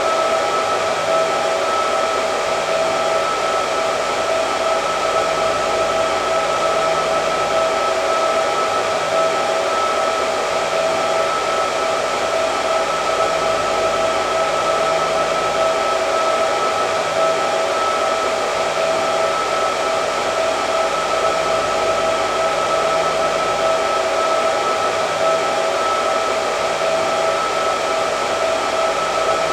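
Hair dryer running steadily: even rushing airflow with a steady motor whine.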